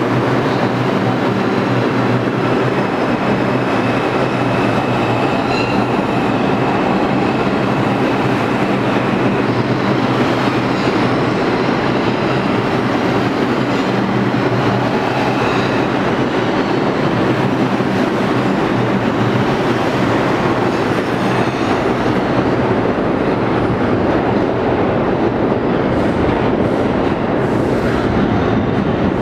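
Bombardier R142 subway train running on the rails: a steady, loud rumble of wheels and cars, with faint high-pitched tones over it.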